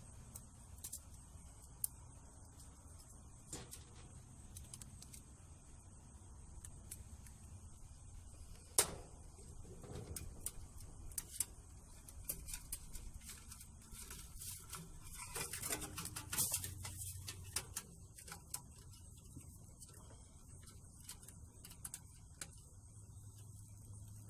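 Scattered small clicks and rattles of metal parts and tools being handled during work on a furnace, with one sharp click about nine seconds in and a busier flurry of clicking and rattling partway through, over a faint steady hum.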